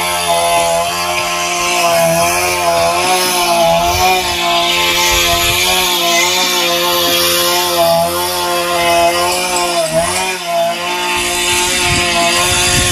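A small motor running continuously, its pitch wavering slightly as the load changes, with a steady hiss over it.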